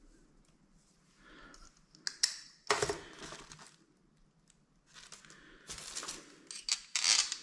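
Crinkling and rustling in irregular bursts, with a few sharp clicks, as small toilet tank-mounting hardware (bolts, washers, gaskets) and its packaging are handled. The loudest bursts come a couple of seconds in and near the end.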